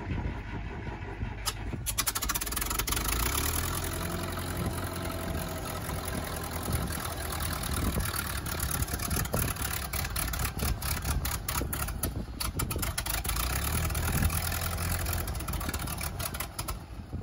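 Propane-fuelled engine of a Case 830 Comfort King tractor running, with a steady low throb and a rapid irregular crackle over it.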